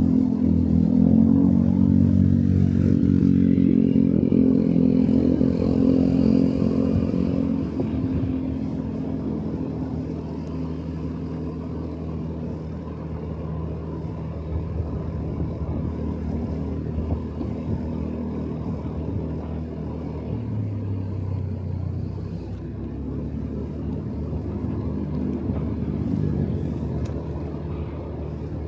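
Motorcycle engine running while riding, with road and wind noise; the engine is loudest over the first several seconds, then eases off to a lower, steadier drone.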